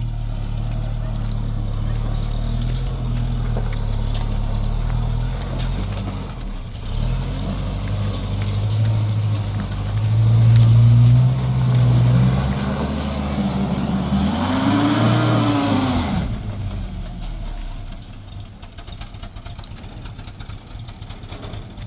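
Car engine running, then revving up and falling back once about fourteen to sixteen seconds in, with a hiss rising alongside the rev.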